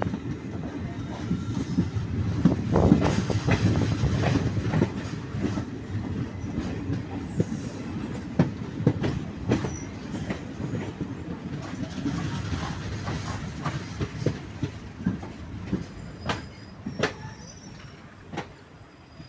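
Passenger train running on the rails, heard from aboard the coach: a steady low rumble with irregular sharp clacks of the wheels over rail joints. It grows quieter toward the end.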